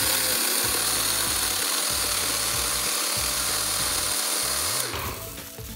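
Small electric spice blender running at full speed, its blades chopping chillies, shallots and garlic with water into a coarse paste; a loud steady whir that stops near the end.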